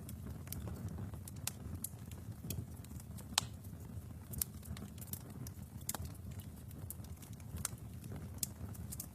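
Wood fire burning in a fireplace: a steady low rumble of the flames with irregular sharp crackles and pops, one louder pop about three and a half seconds in.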